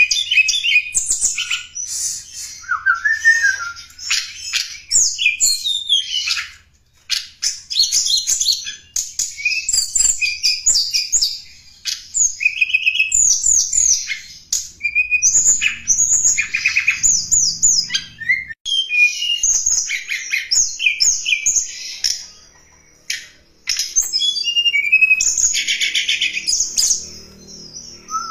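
Song of a tledekan gunung, played as a lure call: rapid, high chirps, trills and short whistled glides, near-continuous, with brief lulls about seven seconds in and again near twenty-three seconds.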